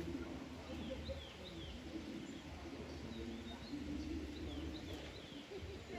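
Small birds chirping: short, quick falling chirps in scattered runs, over a low steady background murmur.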